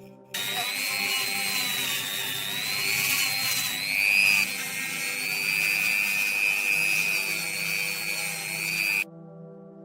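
A small high-pitched power tool running with a steady whine that dips and rises once partway through, cutting in just after the start and stopping abruptly near the end, over background music.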